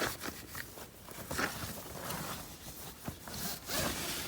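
E-Cloth microfibre polishing cloth rubbed back and forth over the car's surface in several uneven wiping strokes, buffing off smudges.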